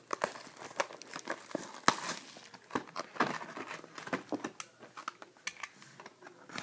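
Plastic packaging on a trading-card box crinkling and tearing in irregular sharp crackles and rustles as it is opened.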